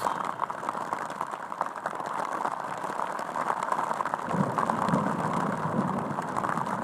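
Rain pattering steadily on the Gore-Tex bivy cover of a military sleep system, heard from inside as a dense patter of small ticks. A low rumble joins about four seconds in.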